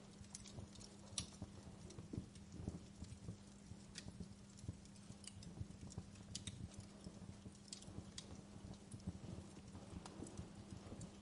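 Wood fire crackling: irregular small pops and snaps, a few sharper ones, over a low rumble of burning logs, with a steady low hum underneath.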